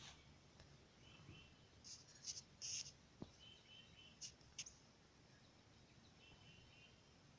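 Near silence with faint outdoor chirping: short, high notes in small repeated groups. A few soft clicks come about two to three seconds in and again just after four seconds.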